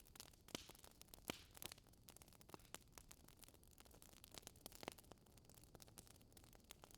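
Wood fire crackling in a fireplace: quiet, irregular snaps and pops over a faint steady hiss.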